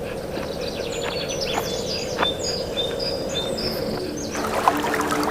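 Small birds chirping, many short high calls in quick succession over a steady background hiss. Sustained music tones come in near the end.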